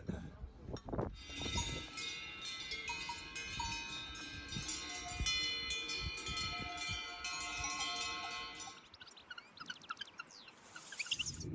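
Small bells ringing in many overlapping tones for several seconds. Near the end come short chirping calls.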